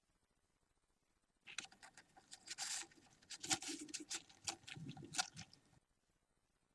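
Budgie chicks shuffling and scratching, a run of quick scratchy clicks and rustles that starts about a second and a half in and stops about a second before the end.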